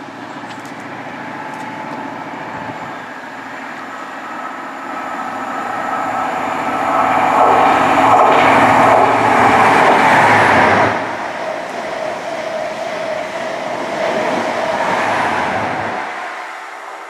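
A High Speed Train led by a Class 43 diesel power car passing through at speed. The engine and wheel noise build as it approaches and peak as the power car goes by, then drop suddenly, and a lower rumble of the coaches running past follows before fading near the end.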